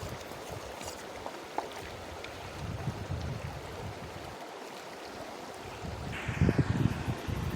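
River water running over stones, with wind rumbling on the microphone; the rush grows louder about six seconds in.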